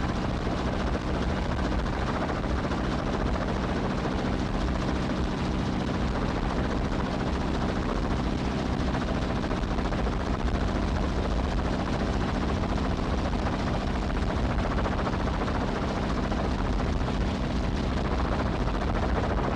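Steady, loud engine drone with a low hum underneath, unchanging throughout.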